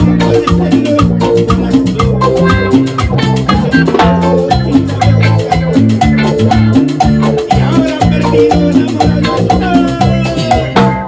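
Instrumental Latin dance music from a band: a steady, quick beat under a bass line, with a lead line of short, quick notes and no singing.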